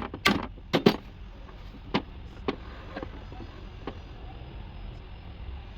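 A quick run of loud sharp knocks in the first second, then a few lighter single knocks spaced out, over a steady low rumble.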